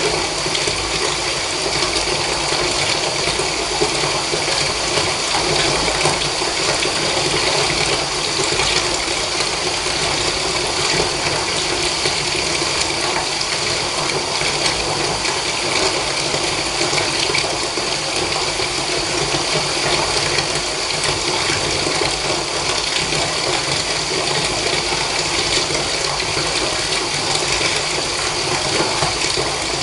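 Water running steadily from a tap into a bath, a continuous even gush with no breaks.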